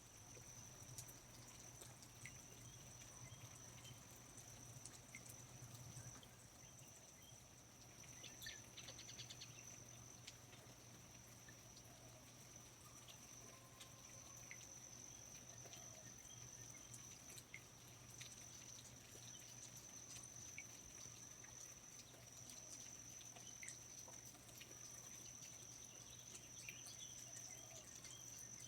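Faint rainforest ambience: a steady high-pitched insect drone under scattered water drips, with a short rapid bird trill about eight seconds in.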